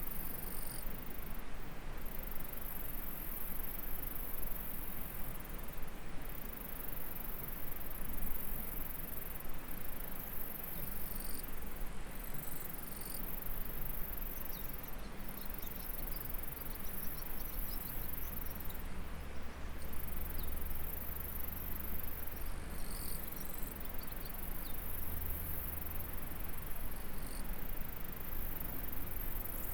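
Insects singing in a very high, steady chorus that breaks off briefly every few seconds, with a few short chirps, over the even rush of a flowing stream.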